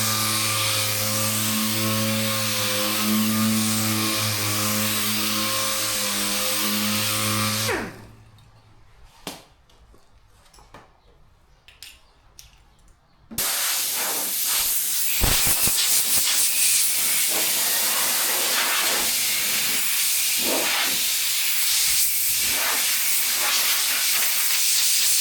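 Dual-action (DA) sander with 400-grit paper running steadily on a primed car panel, then winding down and stopping about eight seconds in. A few light clicks follow, and about five seconds later a steady hiss of compressed air starts and keeps going.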